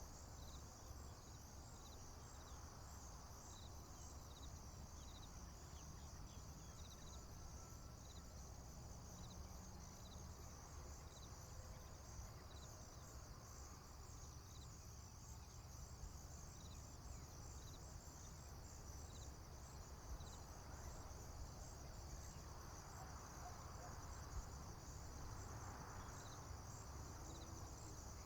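Faint chorus of crickets in a field: a steady high, pulsing trill with a separate lower chirp repeating about once a second, over a low rumble.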